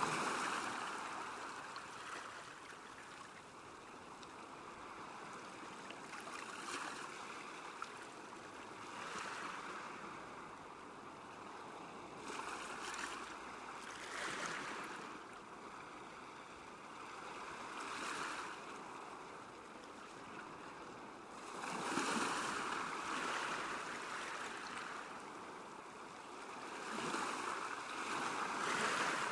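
Small lake waves lapping at the shore, a steady wash of water that swells irregularly every few seconds.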